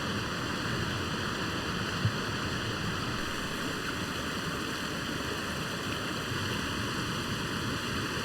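A stream in spate rushing steadily, running high after a night of heavy rain. A single brief knock about two seconds in.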